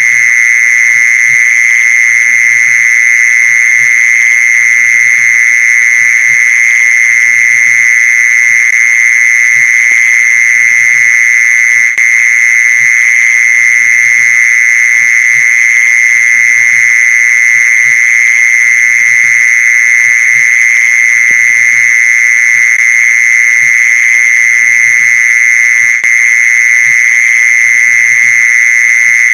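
Mole cricket's call: one steady, unbroken high-pitched trill, of the kind played to lure mole crickets. It dips briefly twice.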